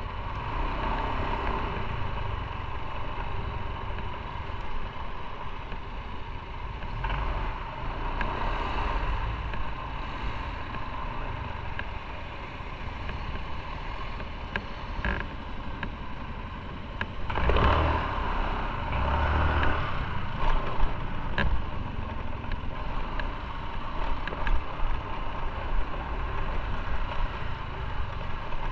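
Motorcycle riding along: engine rumble mixed with wind and road noise on the on-board microphone, with scattered small clicks. It grows louder for a few seconds a little past the middle.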